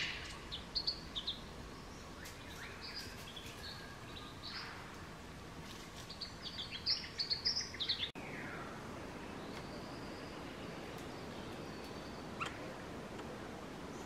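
Wild birds chirping and calling: scattered short, high chirps, a quicker run of chirps about seven seconds in, and a falling call just after eight seconds. Faint steady background hiss behind them.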